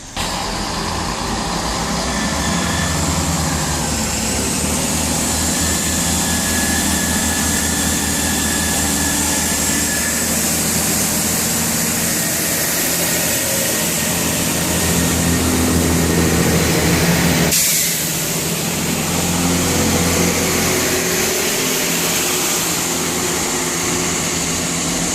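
Class 166 'Turbo' diesel multiple unit's underfloor diesel engines running loud and steady as the train pulls out, with a brief dip about two-thirds of the way through.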